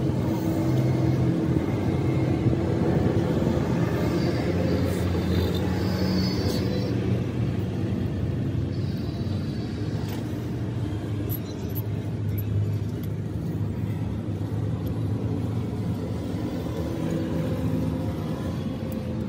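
An engine running steadily with a low rumble, its pitch shifting slightly now and then.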